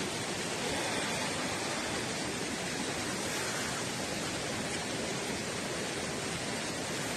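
Steady, even rushing of water, with no distinct events.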